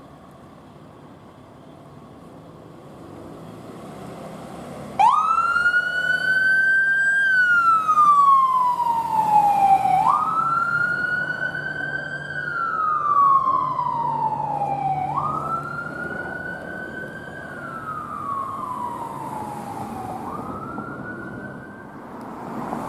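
Emergency vehicle's electronic siren switched on about five seconds in, wailing in slow rise-and-fall cycles of about five seconds each and gradually growing fainter. Vehicle engine and road noise build up before it.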